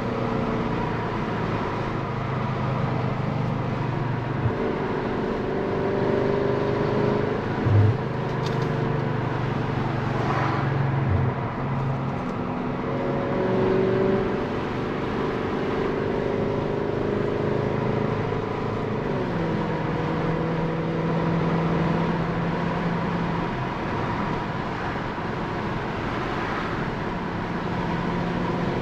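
Audi S6 being driven, its engine running steadily under a haze of road and tyre noise, the engine note shifting in pitch in steps and dropping clearly about two-thirds of the way in. A brief thump shortly before the middle.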